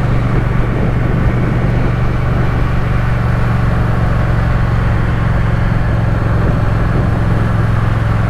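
Triumph Speed Twin parallel-twin engine running at a steady speed on the move, a constant drone with a steady rush of wind and road noise over it.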